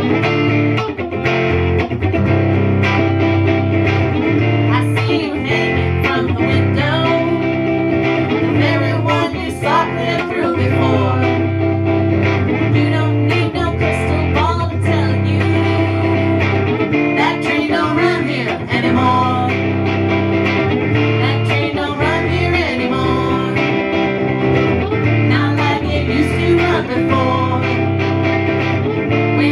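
Instrumental break of a country-blues song: guitars strumming over a steady bass while a lead line slides and bends between notes.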